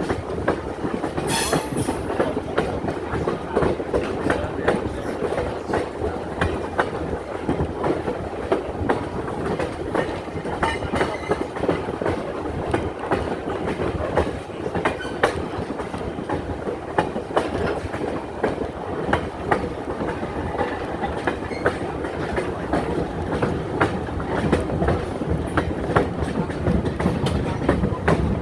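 Passenger train rolling along at a steady pace, heard from aboard: a constant rumble of wheels on track with frequent clickety-clack of the wheels crossing rail joints.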